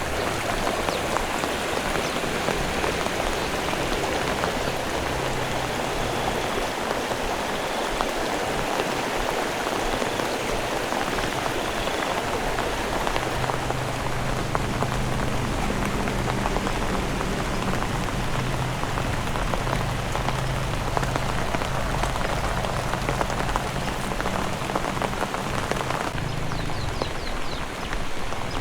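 Heavy rain falling, a steady dense patter. A low steady hum sits underneath from about halfway in.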